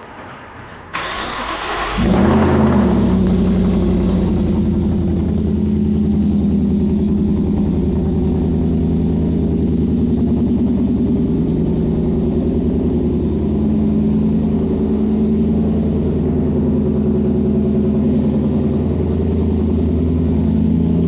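Ford F-150's supercharged 5.0 Coyote V8 starting through a custom cat-delete Y-pipe and MagnaFlow straight-through muffler. The starter cranks about a second in, the engine catches about a second later, and it then settles into a loud, steady idle with a deep rumble.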